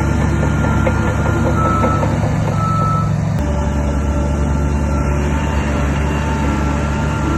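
Heavy earthmoving machine's diesel engine running under a steady low rumble, with a reversing alarm beeping. The engine sound changes abruptly about three and a half seconds in.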